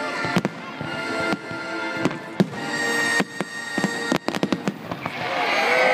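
Aerial fireworks bursting in quick succession, a run of sharp bangs and crackles over music playing alongside. Near the end a crowd starts cheering and shouting as the display reaches its finale.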